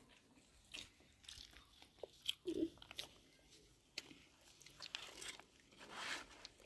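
A person chewing food: faint, scattered crunches and small clicks, several a second at times.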